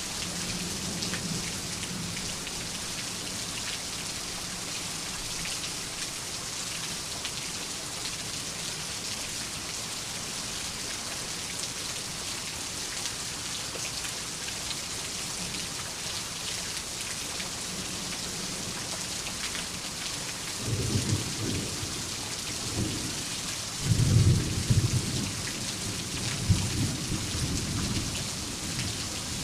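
Steady rain falling with pattering drops, and thunder rolling in low and loud about 21 seconds in, peaking a few seconds later and rumbling on to the end.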